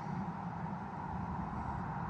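A vehicle engine running steadily, a low even hum with no change in pace.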